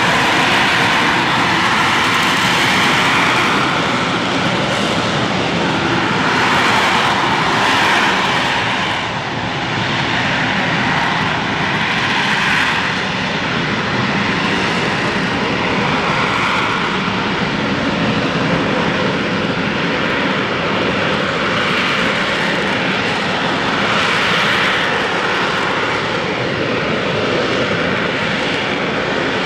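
AV-8B Harrier II Plus jump jet's Rolls-Royce Pegasus turbofan running loud and steady, a dense jet roar that swells and eases a little.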